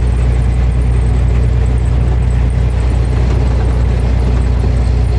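Motor vehicle engine running with a steady low drone, no revving.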